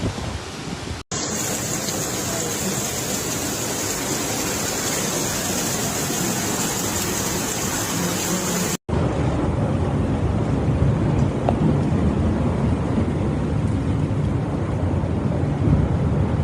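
Heavy rain and rushing floodwater, a steady noisy rush in three joined clips with two abrupt cuts, one about a second in and one about halfway. The middle clip is hissier and the last is deeper and heavier.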